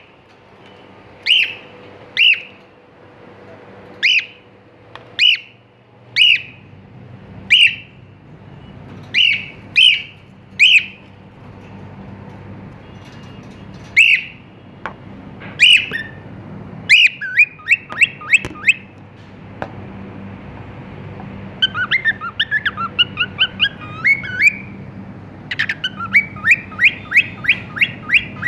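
Cockatiel calling: loud, sharp, upward-sweeping calls about once a second, then quick runs of short whistled notes and a warbling passage, ending in a fast, even series of notes.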